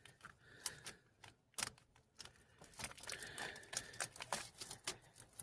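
Scattered, irregular sharp clicks and light knocks of hand tools and loose parts being handled while a bolt and ground strap are worked free under the car's hood.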